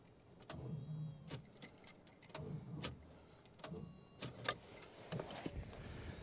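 A 1970 Oldsmobile Delta 88's starter cranking the engine in three short bursts without it catching, with sharp clicks and knocks in between.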